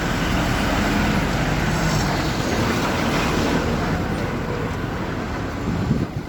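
Road traffic noise: vehicle engines running steadily, with a short knock about six seconds in.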